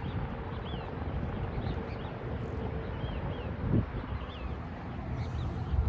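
Small birds chirping with short, high notes scattered through, over a low rumble of wind on the microphone; a single soft thump near the four-second mark.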